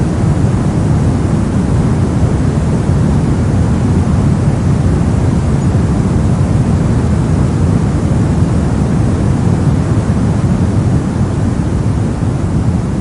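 Steady soft noise, a deep rushing hiss weighted toward the low end, like brown or pink noise, running evenly without change.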